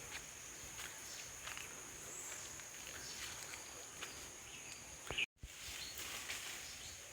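Quiet outdoor ambience: a steady high-pitched insect drone with scattered faint clicks and rustles. The sound drops out completely for a moment about five seconds in.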